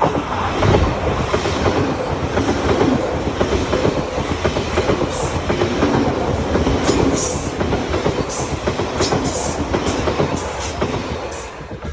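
Odakyu Line train passing over a level crossing, loud, its wheels clattering over the rail joints. It starts suddenly and dies away near the end.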